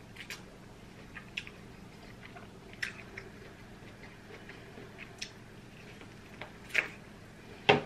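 Close-up mouth sounds of someone biting and chewing sauced corn on the cob: irregular wet clicks and crunches of kernels, a handful spread over several seconds, the loudest near the end.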